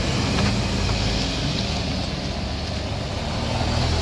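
A heavy vehicle's engine, most likely a truck's, running steadily with a low, even drone.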